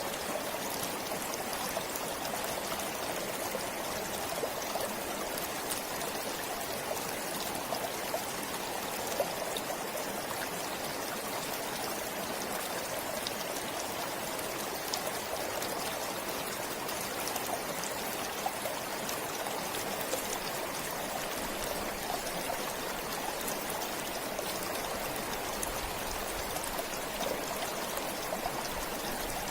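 Stream water flowing steadily, a continuous even rush with many small splashes and drips.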